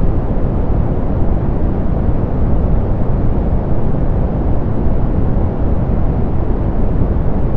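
Soft pink noise: a steady, deep rushing noise with little treble and no changes or events.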